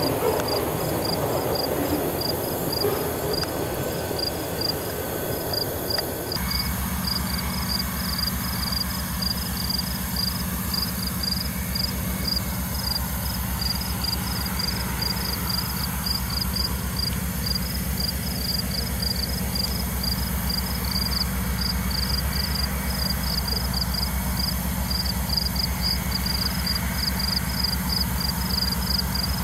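Rumble of a passing freight train for the first few seconds, cut off abruptly, then the steady low drone of a Burlington Northern diesel locomotive approaching slowly at the head of a freight. Crickets chirp rapidly throughout.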